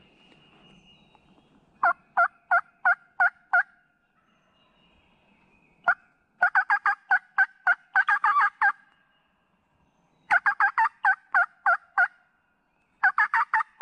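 Wild turkey yelping in several runs of loud, evenly spaced raspy notes, about three a second, with a longer, faster run in the middle.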